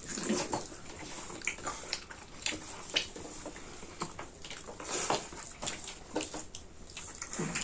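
People eating at close range: many short, irregular mouth sounds of chewing and lip-smacking.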